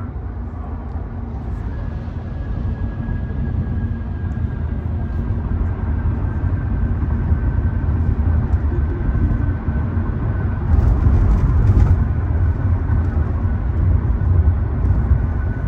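Road and engine noise inside a BMW's cabin on the freeway: a steady low rumble that grows gradually louder, with a faint steady high whine over it for much of the time.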